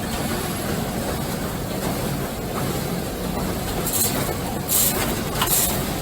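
Mini 300 doypack filling and packing machine running with a steady mechanical rumble. From about four seconds in, short sharp hisses come several times.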